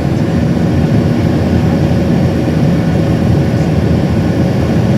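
Airliner engines during takeoff: a loud, steady rumble with a faint steady hum in it.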